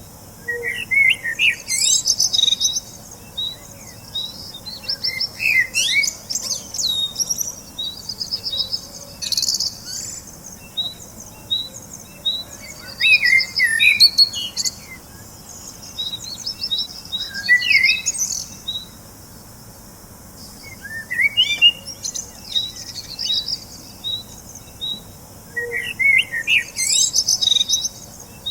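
Birds chirping and singing: a steady run of short, high repeated notes, with louder chirping and trilling phrases breaking in every few seconds.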